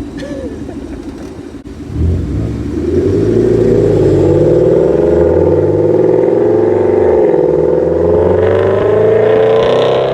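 Car engine and exhaust pulling hard under acceleration. It starts quieter; about two seconds in it jumps in loudness, and its pitch then climbs slowly and steadily as the revs rise in one gear.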